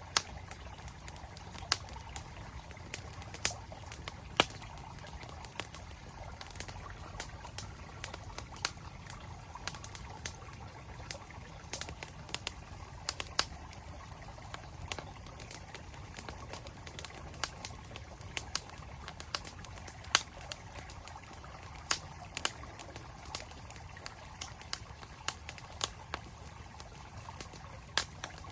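Wood campfire crackling, with irregular sharp pops several times a second, over the steady flowing noise of a mountain stream.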